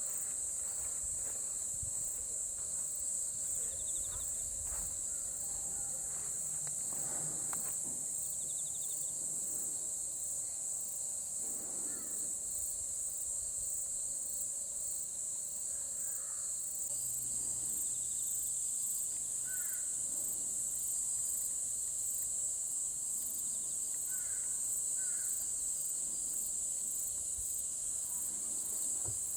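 A chorus of crickets trilling steadily, high-pitched with a fast, even pulse. A few short bird chirps come in the second half.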